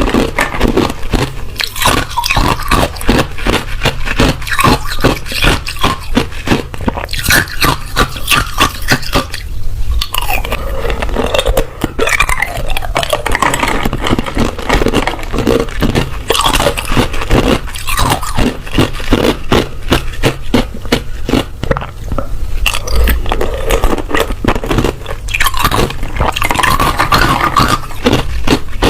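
A person biting and chewing hard ice: dense, rapid crunching with many sharp cracks.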